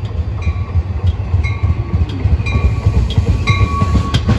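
Caltrain commuter train running, a loud low rumble with a short high-pitched tone repeating about once a second.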